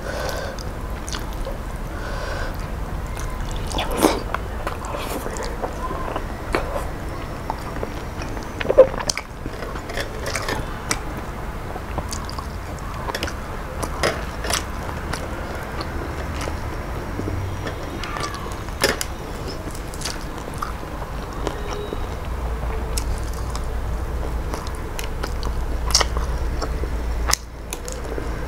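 Close-up eating sounds: chewing and biting of fried fish and rice eaten by hand, with scattered sharp clicks and crackles and a steady low hum underneath.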